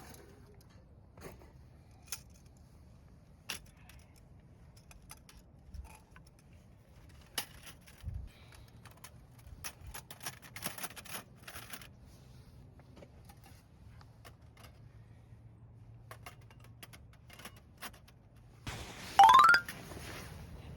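Scattered clicks and light rattling of small objects being handled, then a short, loud rising squeak near the end.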